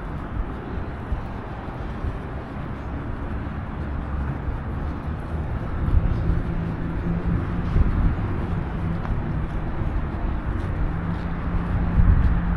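Road traffic rumbling steadily, with an engine hum swelling about halfway through and again near the end.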